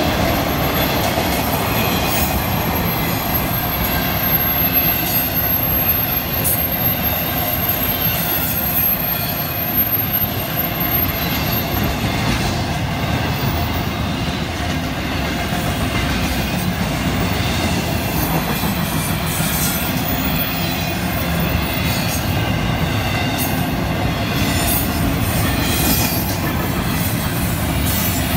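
Florida East Coast Railway intermodal freight cars rolling steadily past: a continuous rumble and clatter of steel wheels on the rails, with a thin high wheel squeal over it.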